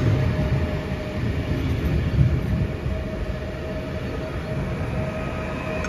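PESA Elf (EN76) electric multiple unit running through a level crossing: a steady low rumble of its wheels on the rails as the cars pass.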